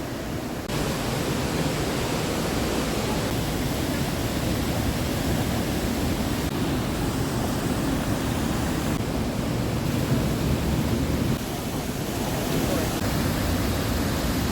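Steady rushing of a waterfall in a rock gorge, a continuous deep noise that jumps in level abruptly about a second in and again near the end.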